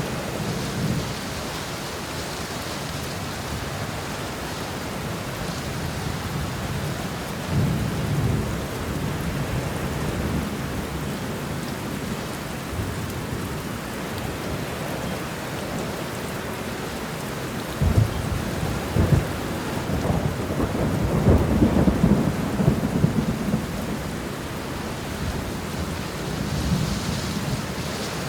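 Steady rain with rolling thunder. A low rumble comes about a third of the way in; just past the middle a sharp crack is followed by a long, louder rolling rumble, and a softer rumble comes near the end.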